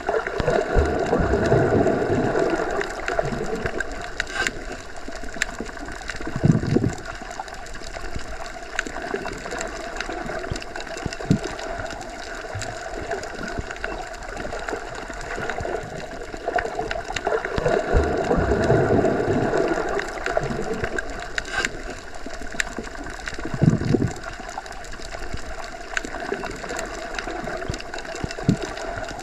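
Underwater ambience as heard submerged: a steady hum under a low, muffled wash of water, which swells twice. Two dull thumps and a few faint clicks come through the water.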